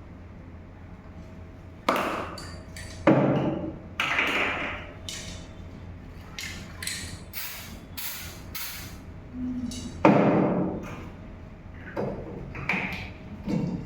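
Aerosol can of white contrast paint being handled and sprayed onto a pie gauge: several knocks, then a quick run of short clicks and brief sprays.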